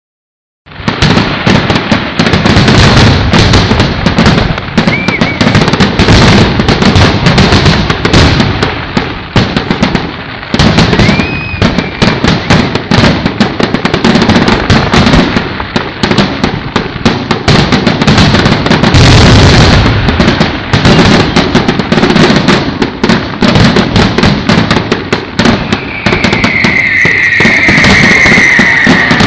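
Fireworks display: a dense, continuous barrage of crackling and booming bursts. Near the end a whistling firework gives a falling whistle.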